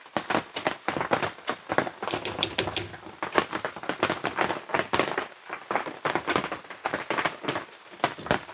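Rain falling on the awning overhead, a dense, irregular tapping of drops.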